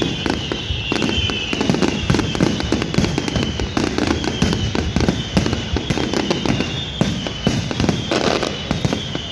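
Fireworks going off in a dense run of rapid crackling pops and heavier bangs, with a thin whistle that falls in pitch again and again above them.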